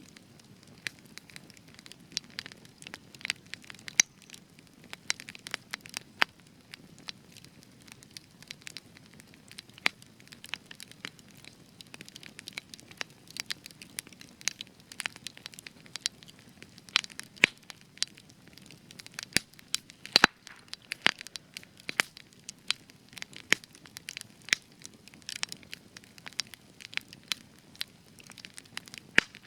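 Spruce wood burning in a campfire, crackling with frequent sharp irregular pops and snaps over a soft low hiss of the flames; a few pops stand out louder, the loudest about two thirds of the way through.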